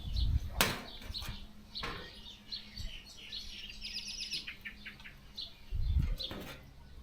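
Small birds chirping, with a quick trill of rapid notes about four seconds in. Two sharp clicks or knocks in the first two seconds.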